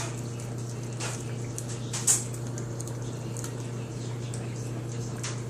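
A dog licking and smacking at peanut butter on a spoon: a few scattered wet clicks, the loudest about two seconds in, over a steady low hum.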